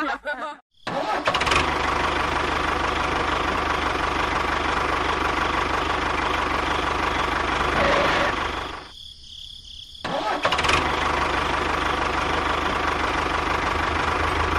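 An engine running steadily, cutting out for about a second a little past the middle and then running again.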